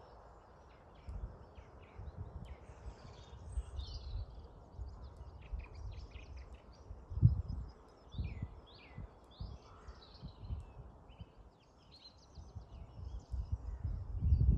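Small songbirds chirping and singing in scattered short calls and trills, over a breeze gusting and buffeting the microphone with low rumbles, one sharp gust about halfway through and stronger gusts near the end.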